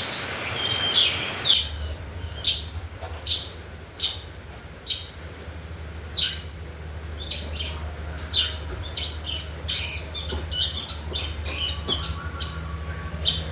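Long-tailed shrike (pentet) giving short, harsh, high calls: single calls about once a second at first, then quicker runs of calls in the second half.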